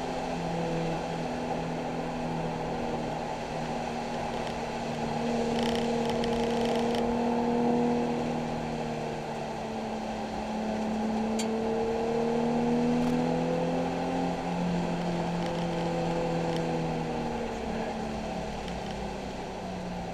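Nissan 370Z's 3.7-litre V6 heard from inside the car, its pitch rising and falling several times as the driver accelerates and lifts on a wet track, over a steady hiss of road noise.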